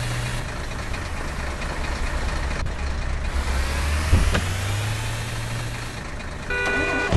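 Truck engine running with a steady low drone. There is a sharp thump about four seconds in and a short, steady multi-tone sound near the end.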